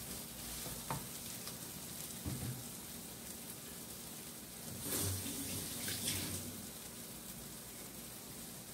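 Spice paste with dried shrimp sizzling and bubbling gently in a non-stick wok: a steady soft hiss with a few light knocks.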